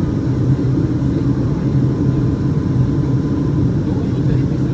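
Steady low drone of a Boeing 757-200's Pratt & Whitney PW2000 turbofan engines and airflow, heard inside the passenger cabin.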